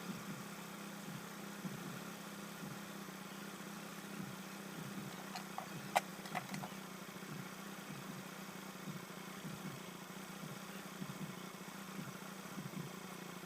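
Honda Click 125i scooter idling quietly with a steady low hum. A sharp click sounds about six seconds in, with a few fainter clicks just around it.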